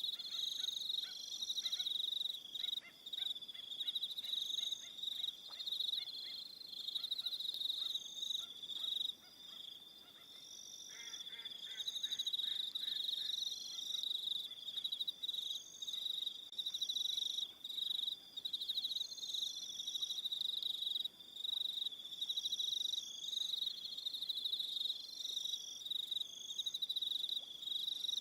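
Chorus of crickets singing in a steady, high pulsing trill, with shorter, higher-pitched trills coming and going over it. A faint rapid clicking joins in near the start and again about eleven seconds in.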